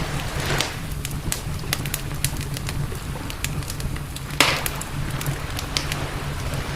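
Campfire crackling, with irregular sharp pops and a louder crack about four and a half seconds in, over a steady low rumble.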